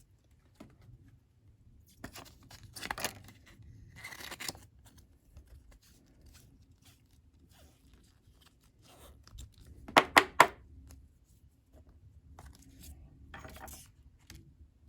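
Trading cards and their wrappers and plastic being handled: short papery rustles and crinkles, with a quick run of three sharp clicks about ten seconds in.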